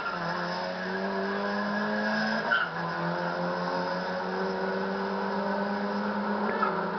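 Race car engine running hard under acceleration, its pitch climbing slowly and steadily. The recording sounds dull because it was taken from an old cassette.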